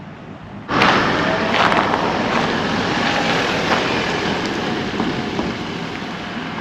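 Creek water rushing steadily over rocks, starting suddenly about a second in.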